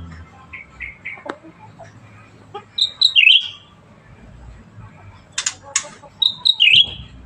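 Cucak ranting bulbul singing: two loud phrases of quick, bright chirps that slide down in pitch, one about three seconds in and one near the end, with softer short notes and a few sharp clicks between them.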